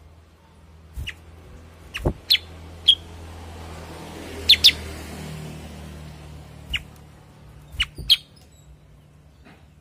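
Common iora (cucak kurincang) giving short, sharp chirps, scattered singly and in quick pairs, with the loudest pair about halfway through. A steady low hum runs underneath.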